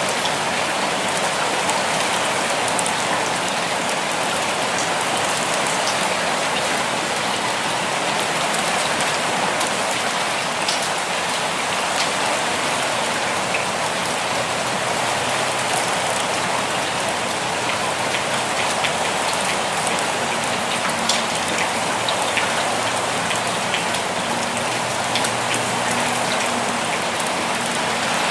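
Steady rainfall on a surface: an even hiss with individual drops standing out now and then.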